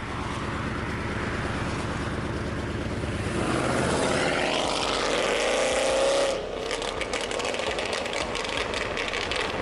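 Car engine running through a loud exhaust. Its pitch rises and falls in a rev a few seconds in, it cuts off abruptly about six seconds in, and then it runs on with a rough, crackling note.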